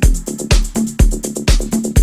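Indie dance / nu-disco electronic track: a four-on-the-floor kick drum about two beats a second, off-beat hi-hats between the kicks, and a sustained synth bassline.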